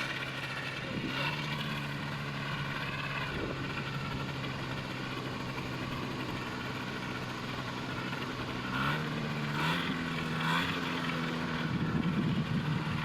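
Paramotor's propeller engine running steadily, its pitch stepping up about two-thirds of the way through.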